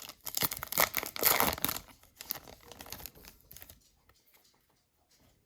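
Trading-card pack wrapper being torn open and crinkled by hand, a dense run of crackles and tears that stops about three and a half seconds in.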